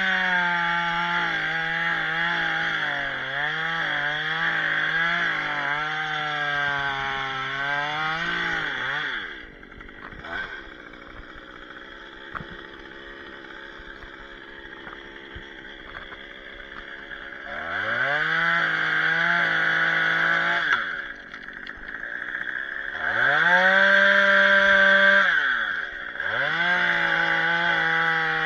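Chainsaw cutting limbs of a shii (Castanopsis) tree, its engine pitch wavering under load, then dropping to idle about nine seconds in. Some eight seconds later it is revved up again, falling back briefly twice before running high again near the end.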